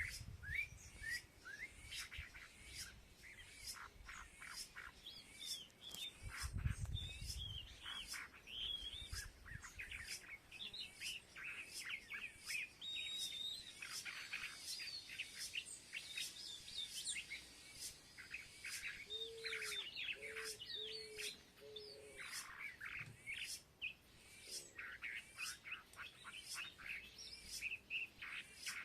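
A group of small birds chirping and twittering constantly, with many sharp clicks among the calls. A brief low rumble comes about seven seconds in, and a run of four short low hoots about two-thirds of the way through.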